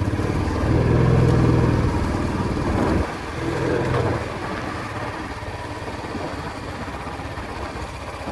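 Royal Enfield Classic 350's single-cylinder engine pulling at steady revs in short stretches broken by brief dips, as between gear changes. About four seconds in it eases to a quieter, lower steady note with road and wind noise.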